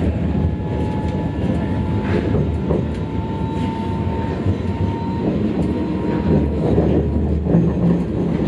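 Sydney light rail tram heard from inside the car while it runs: a steady rumble with a faint high whine for the first few seconds.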